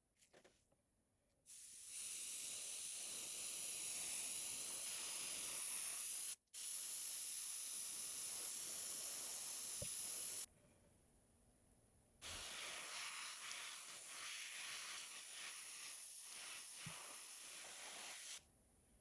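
Airbrush spraying paint, a steady hiss of air and paint. It comes in two long passes, the first about nine seconds with a brief break partway, the second about six seconds.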